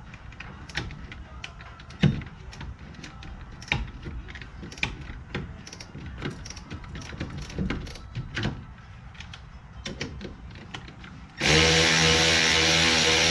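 A hand wrench or ratchet working a suspension bolt: irregular sharp metallic clicks and knocks, one or two a second. Near the end a much louder steady drone starts abruptly.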